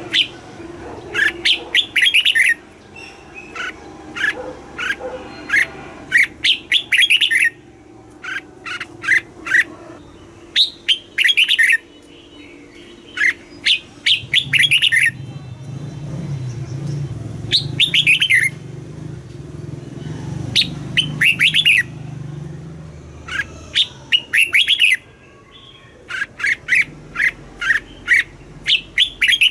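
Red-whiskered bulbul singing: short, quick phrases of chirpy notes, repeated again and again with brief pauses between them.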